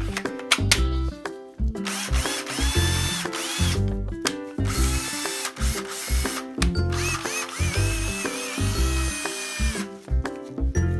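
A cordless drill's motor spins up and runs at speed in two bursts, the first about two seconds in and a longer one from about five seconds, while it is being checked to see whether it still works. Background music with a steady beat plays throughout.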